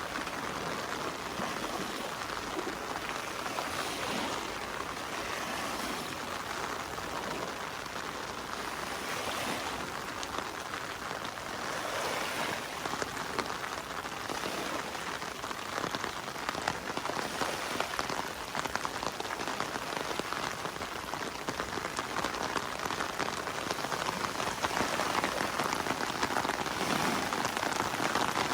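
Heavy summer rain falling steadily, a dense patter of drops hitting the surface, growing a little louder in the last several seconds.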